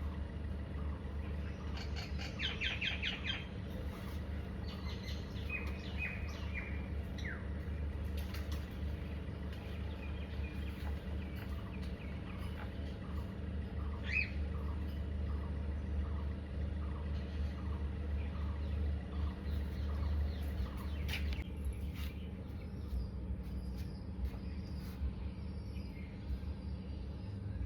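Scattered short bird chirps and calls over a steady low hum. A cluster of chirps comes about two seconds in, and another single chirp about halfway through.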